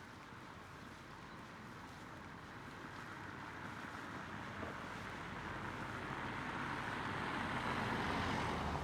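A road vehicle approaching, its noise growing steadily louder and peaking near the end as it passes.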